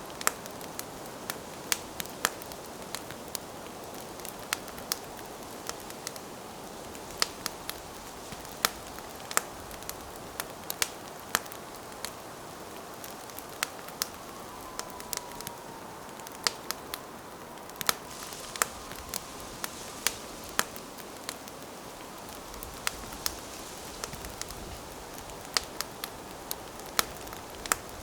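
Wood fire burning, with irregular sharp crackles and pops over a steady hiss of flames. A faint, slightly falling whistle sounds about halfway through.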